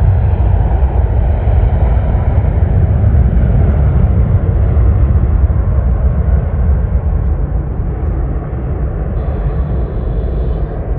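Jet airliner's engines, a loud low rumble that slowly fades over the last few seconds as the aircraft moves away.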